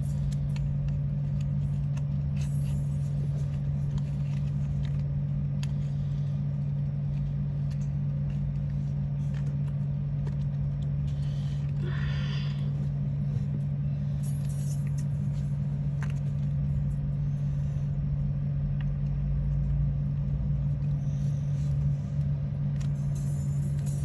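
Steady low hum, like a motor or appliance running, with faint scattered clicks and ticks over it and a brief higher-pitched sound about halfway through.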